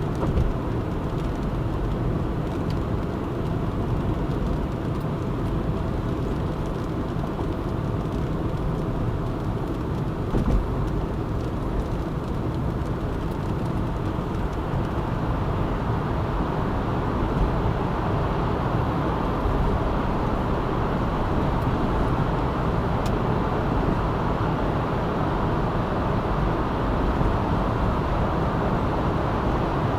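Car driving steadily, a continuous rumble of engine and tyre noise, with a short thump about half a second in and another about ten seconds in.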